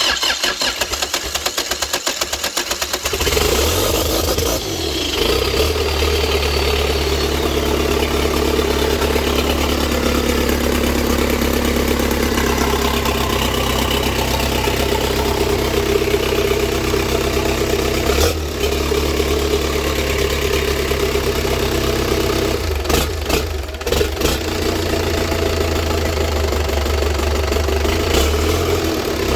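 Toyota 13B-T four-cylinder turbodiesel cranking on the starter for about three seconds, then catching and running steadily on its first start after a rebuild.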